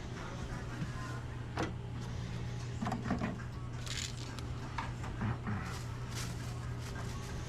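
Restaurant kitchen background noise: a steady low machine hum, with scattered clatter and knocks of utensils and equipment every second or so.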